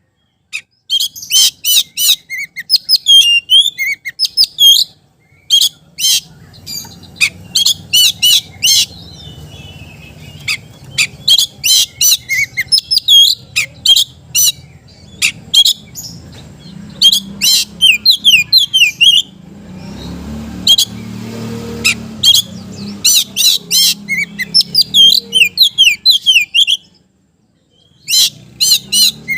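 Oriental magpie-robin (kacer) singing vigorously: loud runs of rapid, high whistled chirps, repeated in bouts with short pauses, over a faint low hum.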